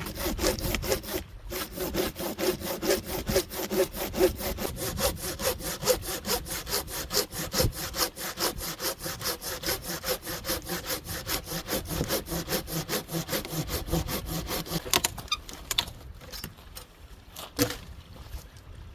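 Hand saw cutting wood in quick, even strokes, about four a second, stopping about fifteen seconds in. A single knock follows near the end.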